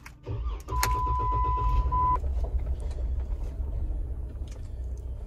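Jeep Wrangler engine started with the key: it cranks briefly, catches within about half a second, and settles into a steady idle. A steady electronic warning chime sounds for about a second and a half just after it starts.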